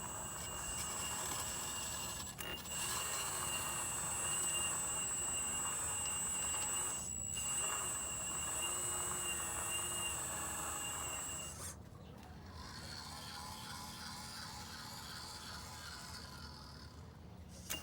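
Radio-controlled hydraulic model excavator working, its pump motor running with a steady high whine over a rougher mechanical noise. About twelve seconds in, the whine stops and the sound drops to a softer noise.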